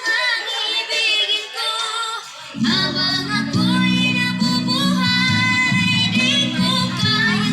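A song with female singing and guitar played loud through a sound system of subwoofer and mid-range speaker boxes during a sound test. The bass drops out for the first two and a half seconds, then the low end comes back in strongly.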